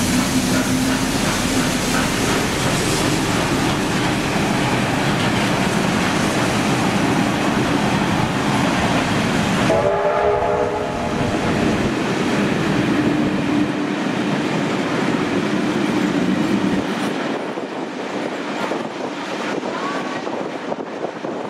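Train running with loud, steady wheel-and-rail noise. About ten seconds in comes a short signal blast of several notes sounding together, then the train runs on more quietly.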